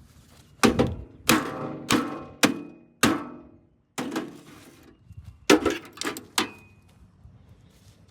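Sharp metal knocks, about nine of them at irregular intervals, each ringing out briefly, from the sheet-metal parts of a Hamilton Beach microwave oven being worked apart.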